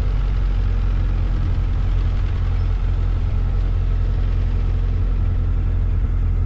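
Ford 9N tractor's four-cylinder flathead gasoline engine running steadily at a low, even speed.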